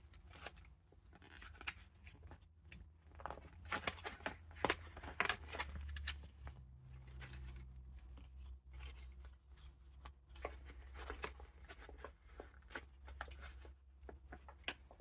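Paper pages and tucked-in ephemera of a handmade junk journal being handled and turned: irregular dry rustles, crinkles and crisp taps, over a low steady hum.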